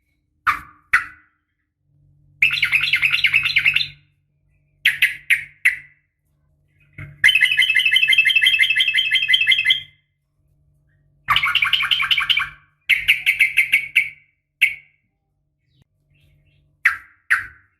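Yellow-vented bulbul (trucukan) giving long, rapid chattering trills: several bursts of quickly repeated notes, the longest about two and a half seconds, between short two- and three-note calls. It is the call of a female, used to set off males.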